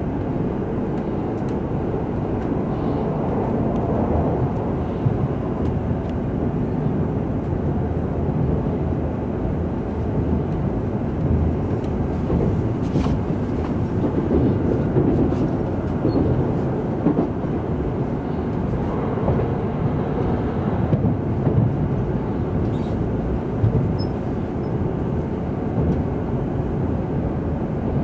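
Cabin noise inside an N700 series Shinkansen as it pulls away from the station and gathers speed: a steady low rumble from the running gear and track that swells a little at times, with a few light ticks.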